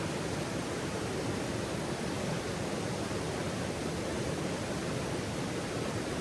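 Steady, even rushing noise with no distinct pops or crackles.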